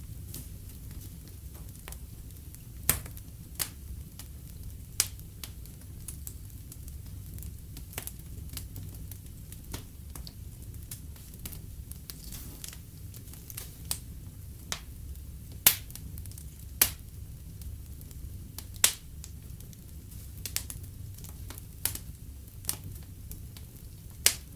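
Wood fire in a fireplace crackling, with irregular sharp pops, a few louder ones in the second half, over a low steady rumble.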